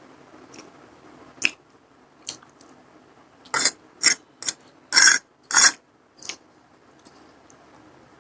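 Eating sounds of a mouthful of masala Maggi noodles: a few soft mouth clicks, then about halfway in a quick run of about seven short, sharp mouth sounds.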